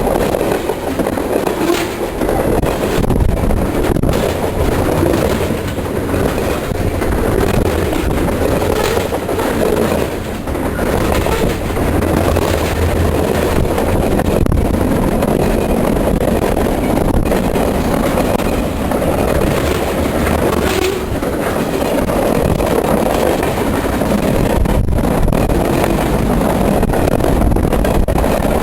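Train cars rolling past at speed: a continuous loud noise of wheels on rail, with scattered clicks over the rail joints.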